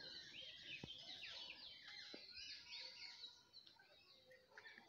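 Faint birdsong: several small birds chirping and twittering together, busiest in the first three seconds or so and thinning out after.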